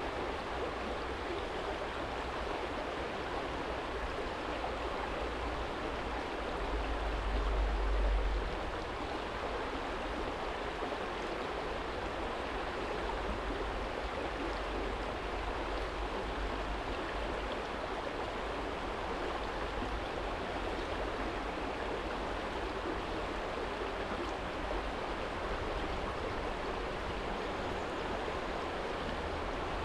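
Small stream flowing steadily over a stony bed, a constant even rush of water. A low rumble swells briefly about seven seconds in.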